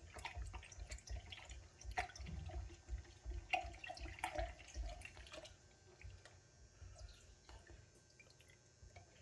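A spoon stirring a thin, watery mix of laban and spices, with light clinks and sloshing that die down after about five seconds.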